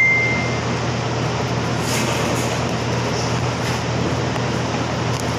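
Steady air-conditioner noise with a low hum, with a short high electronic beep fading out at the very start and a few faint light clicks.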